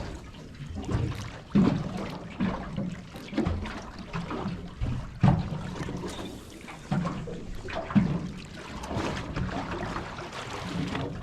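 Water lapping and slapping against the hull of a small boat, with irregular low knocks every second or two.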